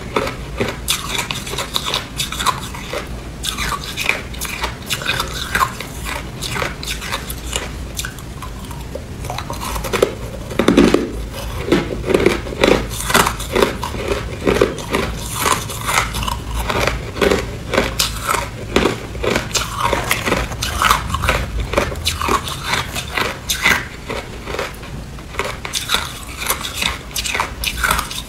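A person biting and chewing hard clear ice close to the microphone, in a steady run of loud, irregular crunches and cracks.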